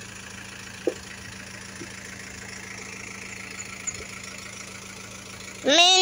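Ice cream truck engine idling steadily. Near the end the truck's loudspeaker jingle starts up, loud and tuneful.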